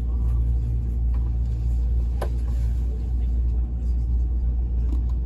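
Steady low rumble heard inside a JR East E657 series express train car as it moves slowly along a station platform. A single brief sharp sound comes a little over two seconds in.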